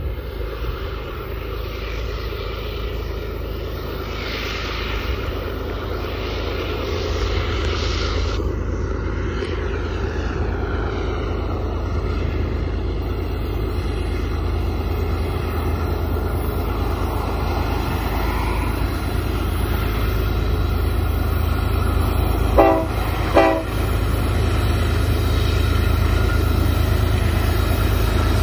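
GE ES44C4 diesel-electric locomotives hauling a loaded coal train: a steady low rumble that grows slowly louder as the train approaches. About two-thirds of the way through there are two short horn blasts less than a second apart.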